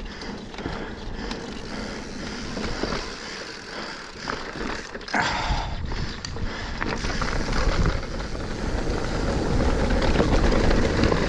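Mountain bike riding down a loose, dusty dirt trail: tyres rolling and crunching over dirt and roots, with the bike rattling and wind rushing over the microphone. There is a sharper, louder burst about five seconds in, and the noise builds toward the end.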